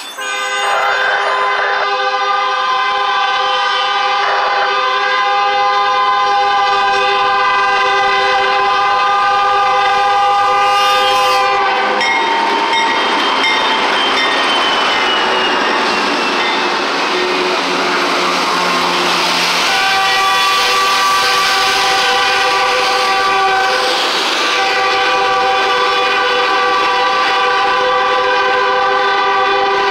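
A BNSF diesel freight train led by GE C44-9W locomotives passes close by at a grade crossing. A steady chord of tones sounds through most of it. For several seconds in the middle the rumble of the lead locomotives' engines and wheels drowns it out, then the freight cars roll past.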